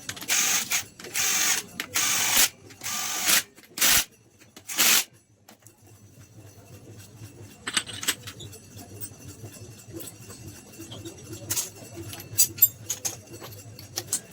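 About six short, loud bursts of hiss in the first five seconds, then scattered light clicks and clinks of tools on engine parts while a motorcycle engine is being assembled.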